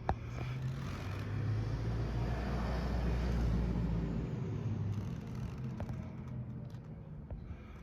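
2017 Indian Scout V-twin running through short aftermarket shorty mufflers, a loud open exhaust note; the revs swell from about a second in and settle back to a lower note after about four seconds. A sharp click right at the start.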